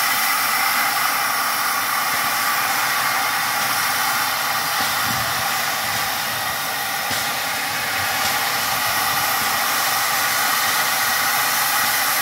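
MÁV class 424 steam locomotive letting off steam: a steady, even high hiss that doesn't break or change.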